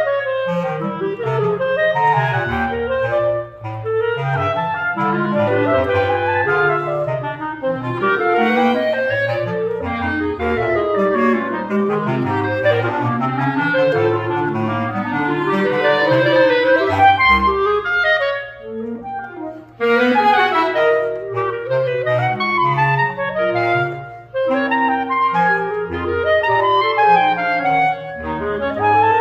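Several clarinets playing a lively piece together over a low bass line, with many quick notes. About two-thirds of the way through, the music thins and drops for a moment before picking up again.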